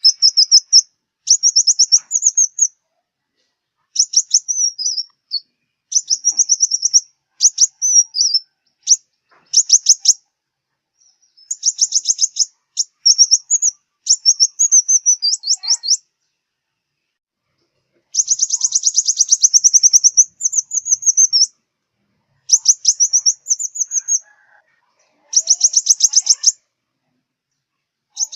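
Sunbird song, the bird that Vietnamese keepers call the five-colour sunbird (hút mật 5 màu): phrases of rapid, high-pitched chirping trills, each one to two seconds long, repeated with short silent pauses between them.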